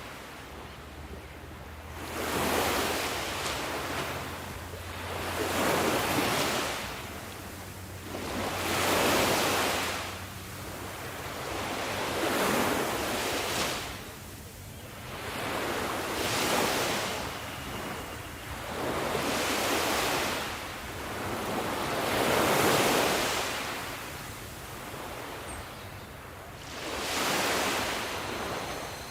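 Sea waves breaking and washing on a shore, one swell after another every three to four seconds, rising and falling in loudness.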